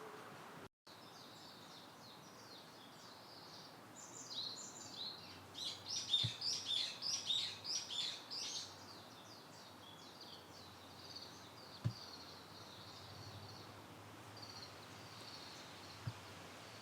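Birds chirping in a quick run of high, falling notes that builds to a loud burst in the middle and then trails off, over a steady outdoor background hum, with a few faint soft thumps.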